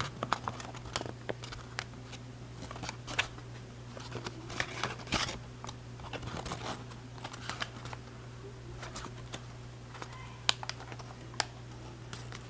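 Paper crackling and rustling as it is pinched along creases and sunk into pleats by hand: irregular small clicks and crinkles, over a steady low hum.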